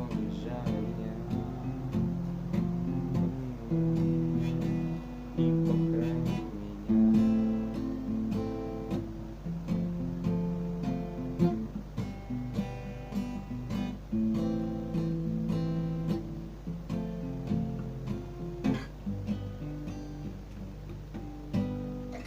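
Yamaha F310 steel-string acoustic guitar strumming chords, each strum sharp and ringing on, playing the instrumental close of the song without singing.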